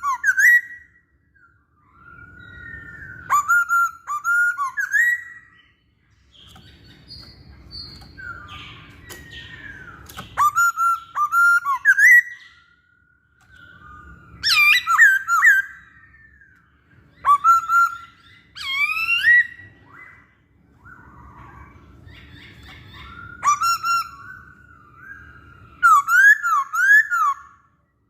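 Poksay Hongkong laughingthrush singing: loud whistled phrases that glide up and down, delivered in bouts of one to two seconds with short pauses between, about eight bouts in all.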